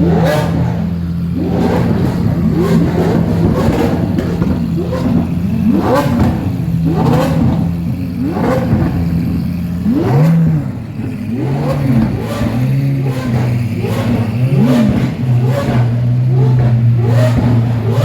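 Supercar engines idling loudly with repeated quick throttle blips, about one rev a second, each rising sharply in pitch and then falling back to idle.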